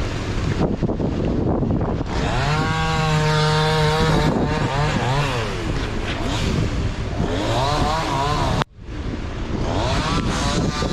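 Two-stroke chainsaw revving up and down, held at high speed for a moment about two seconds in, with wind buffeting the microphone. The sound cuts out abruptly for an instant near the end.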